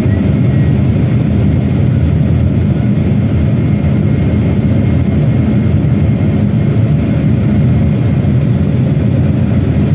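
Loud, steady cabin noise inside a Boeing 777-300ER airliner: a deep even rumble of engine and air noise with a faint high whine.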